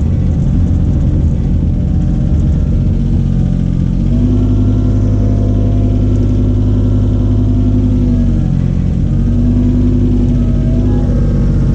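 An engine running steadily, its pitch shifting slightly about four seconds in and again a little past eight seconds.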